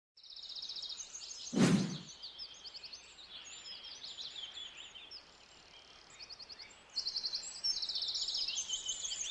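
A chorus of small songbirds chirping and trilling, many rapid high calls overlapping. A single loud thud cuts in about a second and a half in.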